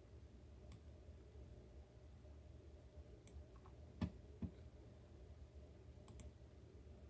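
Faint clicks of a computer mouse over a low room hum, with two dull knocks about half a second apart near the middle.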